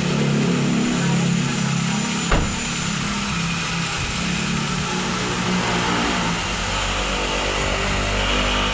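Toyota Innova engine idling steadily, with one sharp knock a little over two seconds in.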